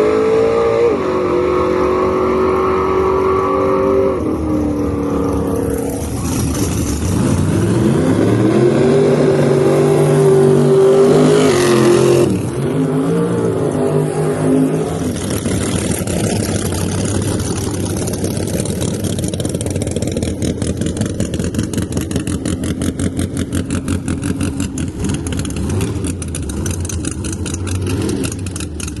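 Drag race car engines at high revs, pitch rising and falling, loudest about eleven seconds in and dropping off sharply at about twelve seconds. This is followed by a lower, rough, pulsing idle rumble.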